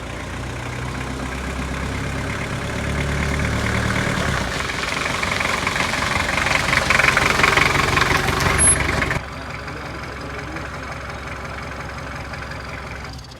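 Diesel engine of a Hindustan Ambassador car, converted from petrol, running with the clatter of an idling diesel and growing louder over the first several seconds. About nine seconds in the sound drops suddenly to a quieter, steady running.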